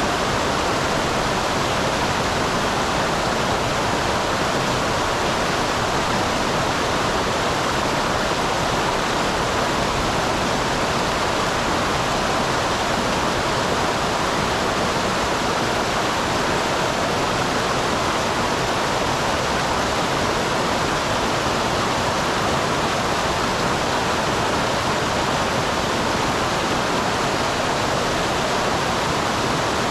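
Small waterfall on a mountain stream: water pouring and splashing in a steady, even rush.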